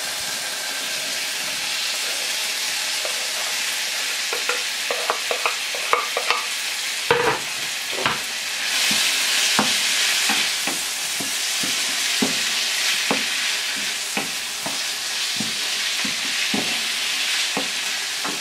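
Chopped green peppers, tomatoes and onions sizzling in oil in a frying pan while a wooden spatula stirs them, with frequent taps and scrapes against the pan and a heavier knock about seven seconds in. The sizzle grows louder about nine seconds in.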